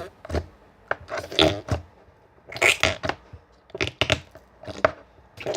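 Slime and its plastic pots being handled: a series of short crunching, crackling noises with sharp clicks.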